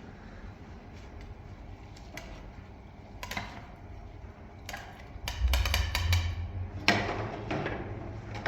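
Irregular clicks and knocks, joined about five seconds in by a low rumble, with the loudest knock a little before the end.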